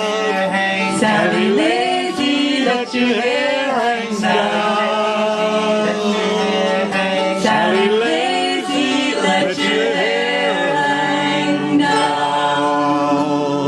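Several voices singing a folk chorus together over a steady held low note, the last lines of the song drawn out.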